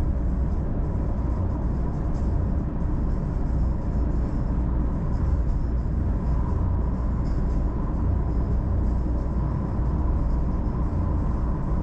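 Car driving at a steady speed: continuous low rumble of road and engine noise.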